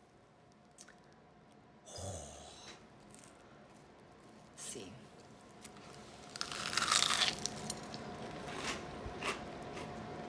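Someone biting into a grilled cheese sandwich with a crispy, fried-cheese crust: a loud crunch about six to seven seconds in, then chewing, with a few softer handling and crunching noises before it.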